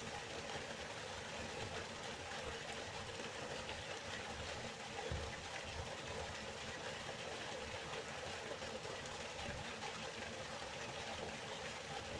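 River water flowing steadily: an even rushing noise with a low rumble underneath.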